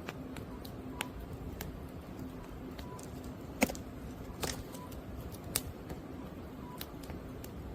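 Burning firewood crackling with scattered sharp pops, the loudest about three and a half seconds in, over a faint steady hum.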